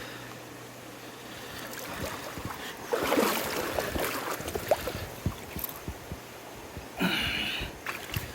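River water rushing steadily, with louder splashing twice: a longer stretch about three seconds in and a shorter one near the end.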